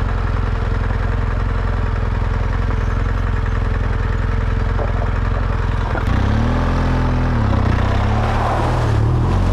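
BMW GS Adventure motorcycle engine running at a steady low engine speed. About six seconds in, the engine note rises and falls as the throttle is opened and closed, then it carries on running.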